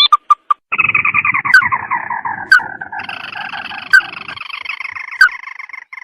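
Crake (tikusan) calls from a bird-lure recording: a few short notes, then about a second in a long, rapid, chattering trill that slowly falls in pitch and runs on to the end, with a few sharp clicks through it.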